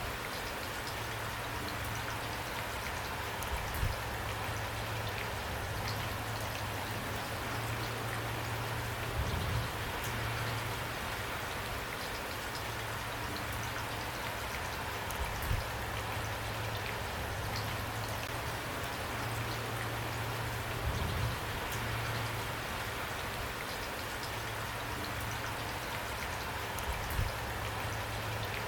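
Steady rain falling. A brief low thump comes every five or six seconds.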